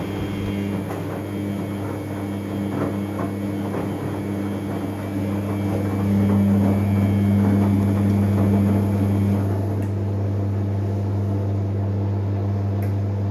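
New Samsung washing machine running with a loud, steady low hum, growing a little louder about six seconds in, with faint rattling early on. The owner calls it a horrible noise, measured at 93 dB.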